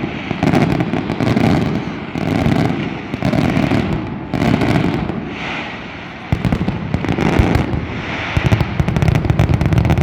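Fireworks display, dense and continuous: rapid bangs and crackling shells bursting in surges about once a second, with a short dip about six seconds in before sharper bangs resume.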